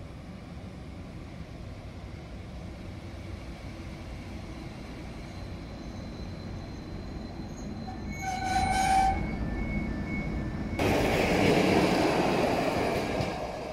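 EP07 electric locomotive hauling an Intercity passenger train, its rumble growing as it approaches. It sounds a short horn blast about eight seconds in. Near the end the locomotive and coaches pass close by with a loud rush of wheel and rail noise.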